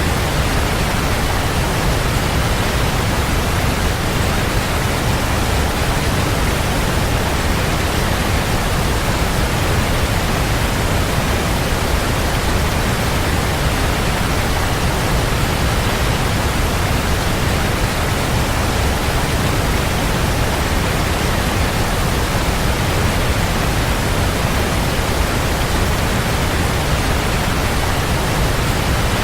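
Waterfall: a steady, even rush of falling water, heavy in the low end, with no change.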